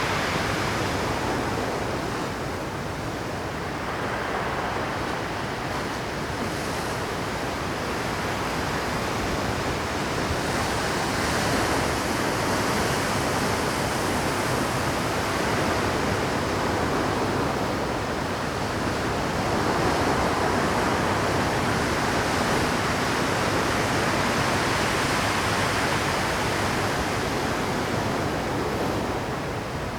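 Rough Pacific surf at high tide, breaking and washing over shore rocks. It is a continuous roar of water that swells louder about a third of the way in and again through the second half, easing a little near the end.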